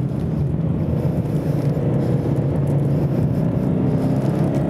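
Toyota 86's 2.0-litre flat-four engine running steadily under load through a bend, its pitch starting to climb near the end as the car accelerates.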